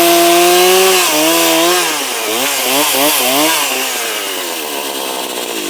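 Two-stroke chainsaw engine running at high revs, then the throttle is let off about a second in. The revs rise and fall a few times, then sink steadily toward idle.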